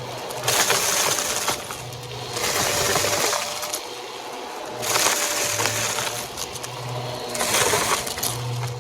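Vacuum cleaner running with a steady whine while picking up scattered debris in back-and-forth strokes; the grit rattles and crackles through the nozzle in bursts about every two and a half seconds.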